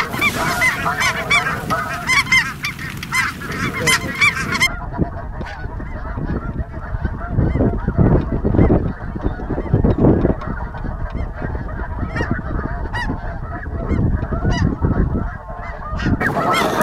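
A large flock of snow geese calling, many high honks overlapping. About five seconds in the calls turn duller and sit under low rumbling noise, and they come back clear near the end.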